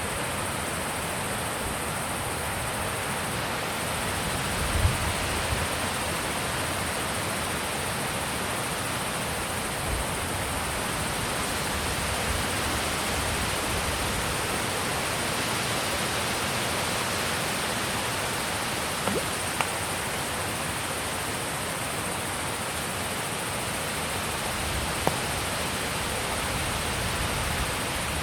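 Steady wind rushing, with a few soft low thumps about five and ten seconds in and a couple of faint clicks later.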